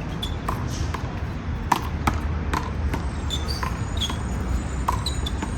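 Rubber handball rally: about ten sharp smacks at uneven spacing, the loudest a little under two seconds in, as the ball is struck by hand and rebounds off the wall and the court. A steady low rumble runs underneath.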